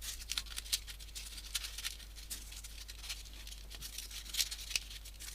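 Folded paper origami pieces rustling and clicking softly as they are handled and slotted onto the model, many small irregular ticks with a slightly louder one a little after four seconds in.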